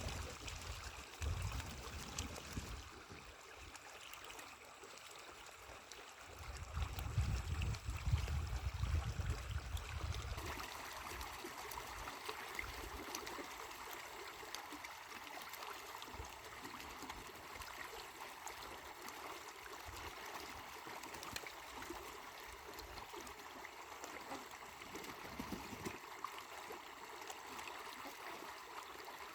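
Water flowing and trickling steadily. Low rumbling surges come at the start and again from about six to ten seconds in.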